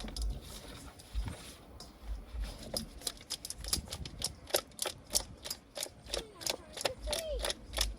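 Hands rubbing seasoning into raw birds, giving a rapid, irregular run of wet smacking clicks, about four or five a second, from about three seconds in.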